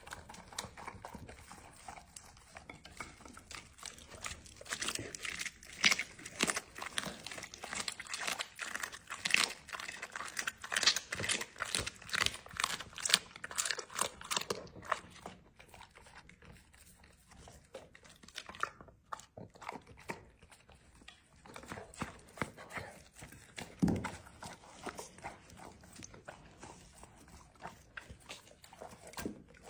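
A chocolate Labrador eating a raw meal, chewing and crunching in quick irregular bites. The crunching is dense for the first half and thins to scattered bites later, with one dull thump about two thirds of the way in.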